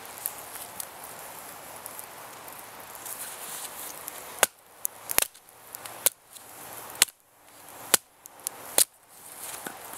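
Steady rain hiss for about four seconds, then seven sharp knocks roughly a second apart: a Bear Grylls survival knife chopping into wood.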